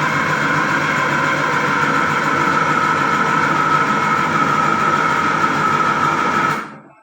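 Electric yam pounder's motor running steadily while pounding boiled yam, a steady whine that drops slightly in pitch over the noise of the machine. It fades out near the end.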